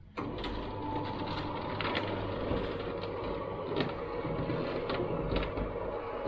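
Exterior roller shutter of the kind common in Spain rolling on its strap, a steady rumbling rattle of slats with scattered clicks that starts abruptly.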